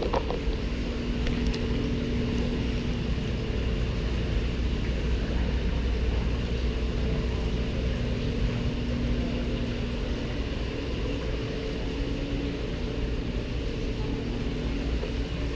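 Steady low machinery hum with two faint held tones over it, and a short click right at the start.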